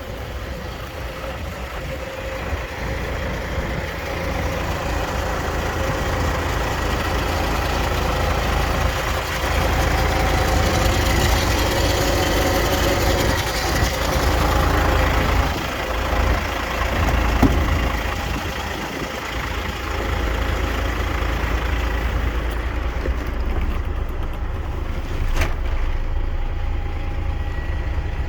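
DAF CF 85.460 truck's diesel engine running steadily, getting louder for a stretch in the middle. There is a single sharp click near the end.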